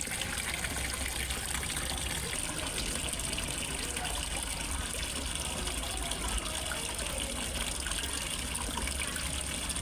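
Water splashing and trickling steadily into a fish pond from a small waterfall, an even, unbroken gush.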